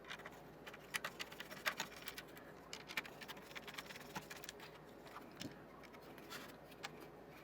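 Faint, irregular clicks and scrapes of a Torx screwdriver and hands working at the screws and clips that hold a small cooling fan inside an opened DVR.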